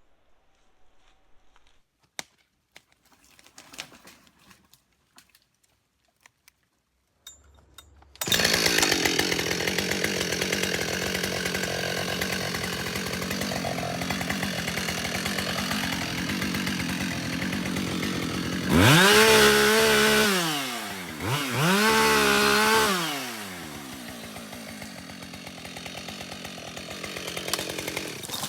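Scattered light knocks, then a Husqvarna 572 XP two-stroke chainsaw starts about eight seconds in and runs loud and steady for about ten seconds, cutting wood. It then revs up and down twice and drops to a lower, steadier run near the end.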